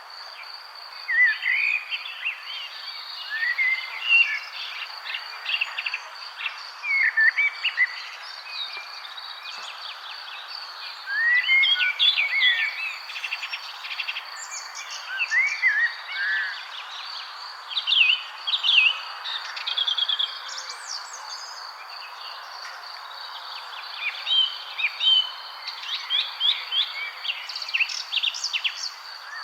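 Several birds chirping and singing in short, repeated phrases of high chirps and whistles, over a steady high-pitched insect trill and a soft background hiss.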